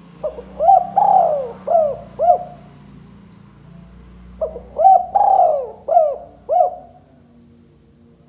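Spotted dove cooing in two phrases of about five coos each, a couple of seconds apart. A faint steady high whine sounds throughout.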